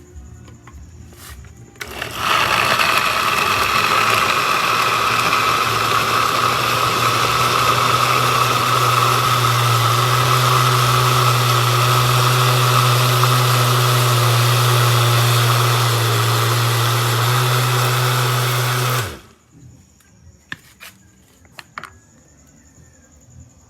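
Electric kitchen blender running steadily, switched on about two seconds in and cutting off suddenly some seventeen seconds later.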